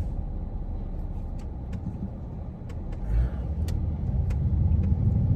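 Car driving, heard from inside the cabin: steady low engine and road rumble that grows louder over the last couple of seconds, with a few faint clicks.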